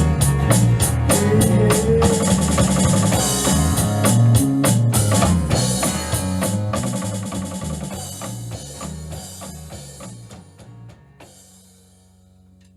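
A small band with a drum kit playing the end of a song. The playing thins and fades over the last several seconds and closes on a held low note.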